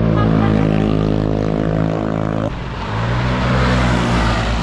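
Motorcycle engine running at steady revs. About two and a half seconds in, the engine note drops abruptly and a rushing noise rises over it.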